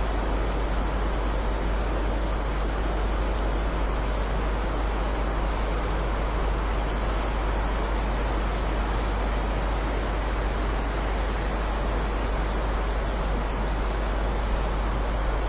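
Steady, even hiss of heavy rain with no separate drops standing out, over a deep low rumble.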